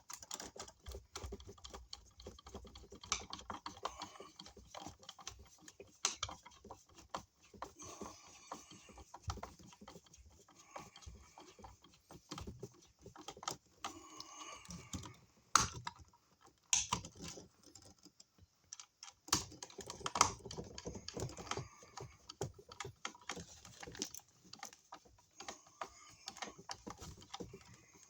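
Irregular small clicks, taps and rattles of hand work on a wall receptacle and its electrical box: wires and wire nuts being pushed back and the outlet being fitted into place. One sharper knock comes about halfway through.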